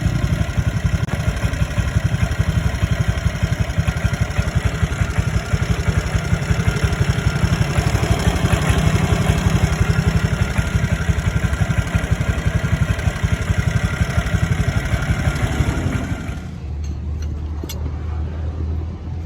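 Vespa scooter engine running steadily. About sixteen seconds in it cuts out, leaving a quieter low hum and a few light clicks.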